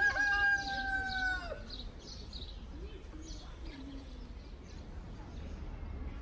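A single long, steady bird call lasting about a second and a half, dropping in pitch at the end, with faint chirping from small birds afterwards.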